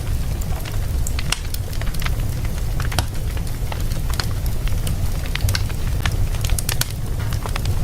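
Fire in a fireplace crackling: irregular sharp pops and snaps of burning wood over a steady low rumble of the flames.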